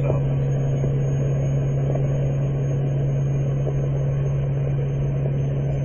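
Vehicle driving: a steady low drone with road noise, unchanging throughout.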